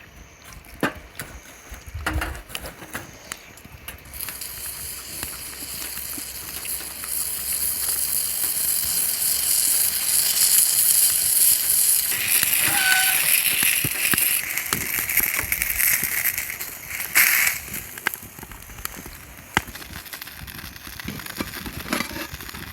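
Beef sizzling on a grill over a wood campfire. The sizzle swells from a few seconds in and dies down near the end, with scattered clicks and pops throughout.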